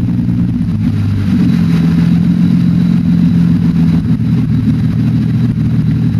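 An engine running with a misfire. Its note shifts up slightly about a second in and changes again around four seconds in.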